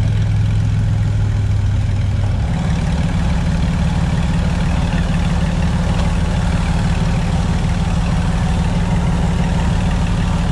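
Off-road 4x4 engine running steadily. About two and a half seconds in its pitch steps up as the revs rise, then holds at the higher speed.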